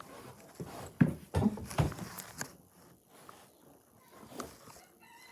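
A quick run of knocks and thumps a little after a second in, then a softer single knock near the end.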